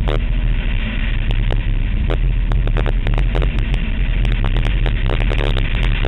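Chevrolet Cobalt SS Turbo's turbocharged four-cylinder engine running hard as the car is driven at speed, a loud steady rumble and rush of noise. Many short clicks and crackles are scattered through it.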